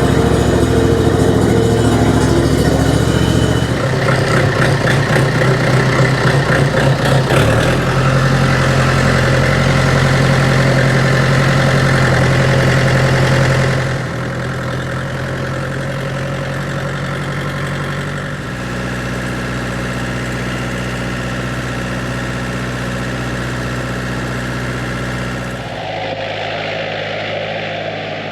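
A small engine running steadily, its pitch and level shifting in sudden steps, with a clear drop in loudness about halfway.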